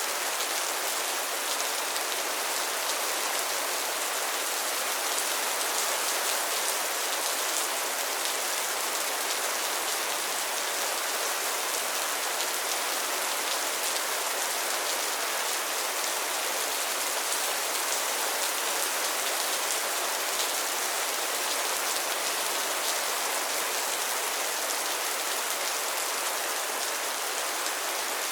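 Steady rain falling on a pond's water surface and lily pads, a dense even patter of drops.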